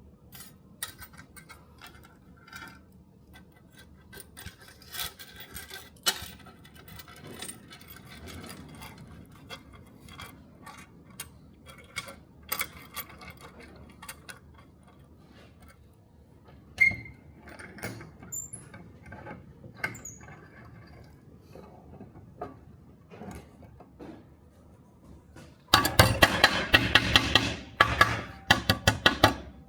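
Scattered light clinks and clicks of keys being handled. Near the end come a loud, fast run of metal-on-metal strikes.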